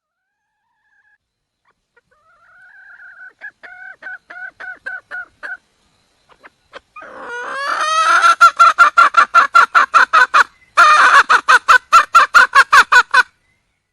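Red junglefowl hen calling in a series of short clucks, faint at first, then a much louder, faster run of about five a second with one brief break. This is the hen's call for a mate.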